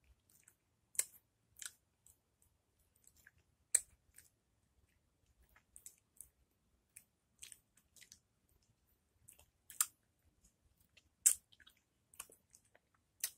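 Mouth noises of a person biting and chewing raw lemon slices: short, sharp clicks and smacks at irregular intervals, a dozen or so.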